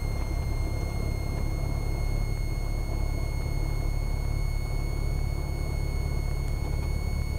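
Cessna 172R's Lycoming four-cylinder engine and propeller running steadily at low power, a dense low rumble with a steady high-pitched whine above it.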